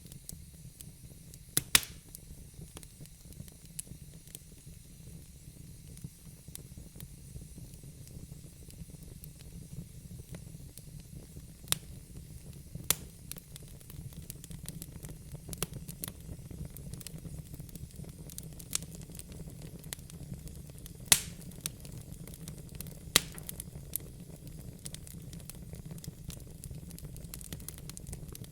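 Wood fire burning in a fireplace: a steady low rumble and hiss of the flames with scattered sharp crackles and pops from the burning logs, the loudest a little after 21 seconds.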